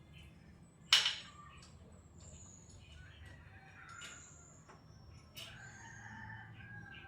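Chickens calling in the background, including a longer crow-like call in the second half. A single sharp click about a second in is the loudest sound.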